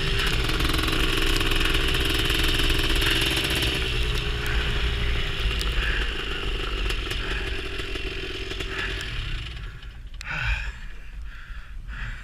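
Honda TRX250R quad's two-stroke single-cylinder engine running steadily with a rush of wind noise. The engine sound drops away about nine to ten seconds in, leaving a few short, softer sounds.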